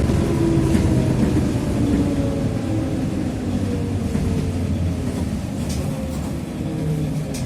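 Interior of a TrolZa-5275.05 Optima trolleybus: the DK-213A traction motor and Ishimbay drive axle whine, falling slowly in pitch as the trolleybus slows. A few short sharp clicks come through, about a second in and twice near the end.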